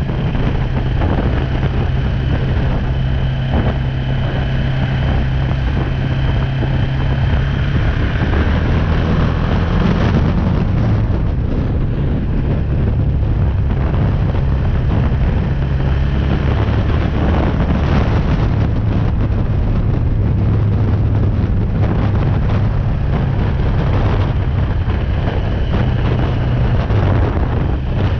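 BMW G310R motorcycle's single-cylinder engine running under way, its note stepping up and down a few times as speed changes. Wind noise buffets the microphone throughout.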